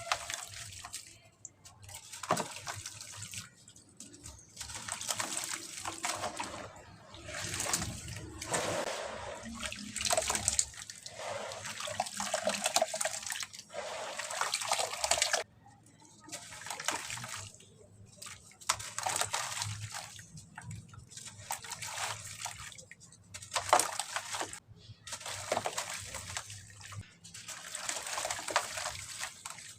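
Soft cement with white grains crumbling into water, in repeated bursts of splashing that each last a second or a few, with short pauses between.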